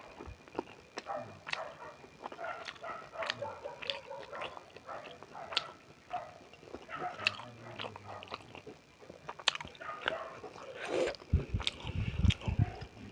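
Close-up eating sounds of beef momo being bitten and chewed: irregular wet mouth clicks and smacks, with a few louder low thuds near the end.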